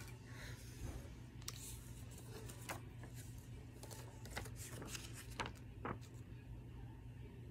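Plastic movie cases and packaging being handled: scattered clicks, taps and rustles, over a steady low hum.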